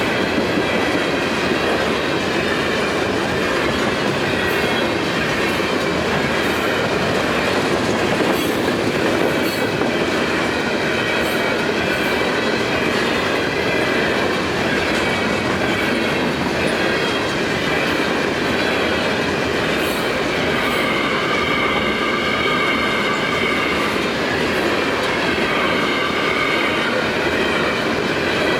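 Loaded potash covered hopper cars of a long freight train rolling past, a steady rumble of steel wheels on rail with clicking over the rail joints. Faint wheel squeal comes and goes.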